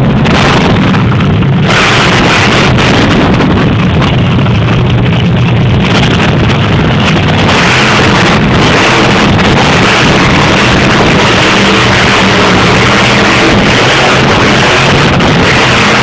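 Monster truck engine running loud and steady, with a low drone under heavy noise that fills out higher about six to eight seconds in.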